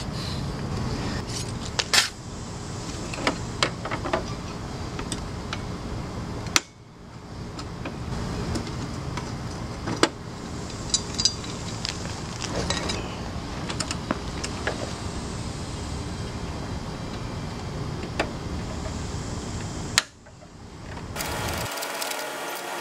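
Scattered light clicks and metallic clinks from handling parts and tools, over a steady background hum. The sound cuts out abruptly twice and fades back in.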